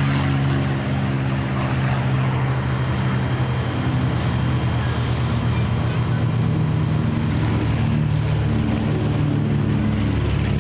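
P-51D Mustang's Packard Merlin V-12 piston engine running at high power during its takeoff run, a loud, steady, deep drone.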